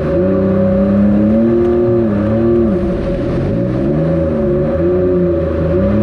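Stand-up jet ski engine with the throttle opened and eased off several times, so the pitch rises and falls, over a steady tone that holds throughout.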